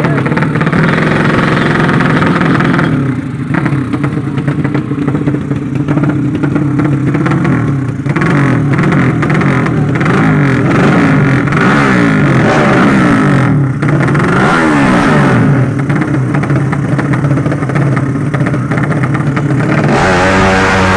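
Drag-racing underbone motorcycle engines running hard and revving, their pitch rising and falling, with more than one engine heard at once.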